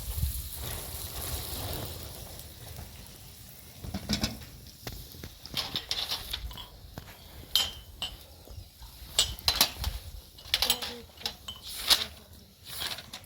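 Food sizzling in a frying pan, the hiss dying away over the first few seconds, then a run of sharp clinks and knocks of utensils against pots and dishes.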